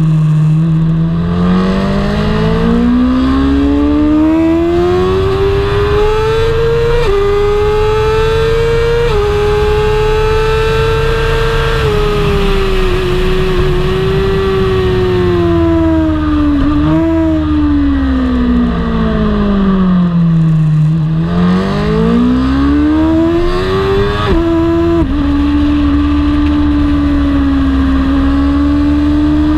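BMW superbike's engine running hard through the gears. The revs climb for about the first dozen seconds with sharp upshift steps, fall away with quick throttle blips on the downshifts, climb again with another upshift, and hold fairly steady near the end.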